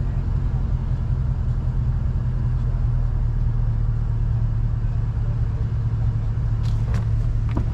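Dodge Charger R/T's 5.7 Hemi V8 running at a steady engine speed through a glass-pack exhaust with the mid mufflers deleted: an even, low drone with no revving.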